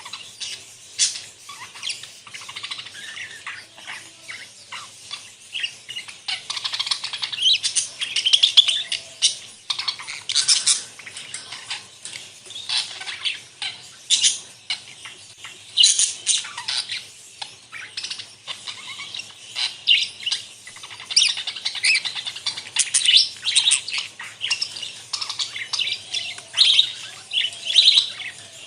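A flock of budgerigars chattering: many overlapping high, short chirps and warbles, with sharp louder calls standing out every second or so.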